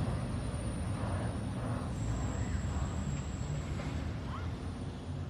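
Low, steady rumble of a CSX freight train receding along street-running track, with a couple of faint short chirps near the end.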